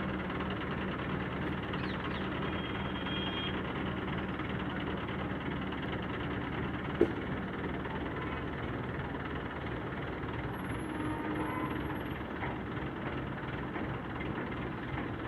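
JCB 3DX backhoe loader's diesel engine running steadily, with one sharp knock about halfway through.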